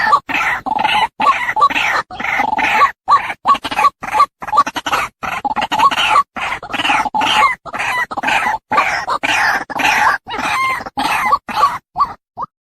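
Female white-breasted waterhen calling over and over in quick phrases, a lure recording cut by abrupt short silences. Near the end the calls thin out to a few short single notes.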